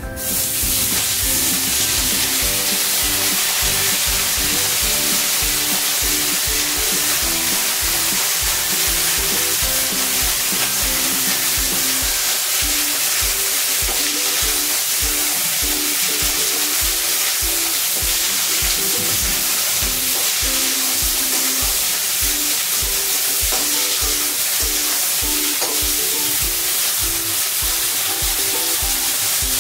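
Vegetables sizzling loudly as they fry in hot oil in a wok, stirred with a metal spatula; the sizzle starts abruptly as the pieces go into the pan. Background music with a steady beat plays under it.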